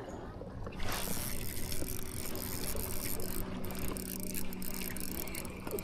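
ReelYak Radar kayak pedal drive being pedaled: a steady gear hum with a rush of water, setting in about a second in.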